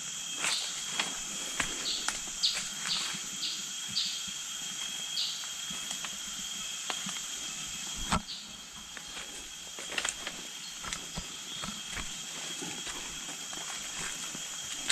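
Insects droning steadily in a high, even chorus, with a run of short high chirps repeating about twice a second for the first five seconds. Footsteps crunch through dry leaves and brush, with scattered twig snaps and a sharper knock about eight seconds in.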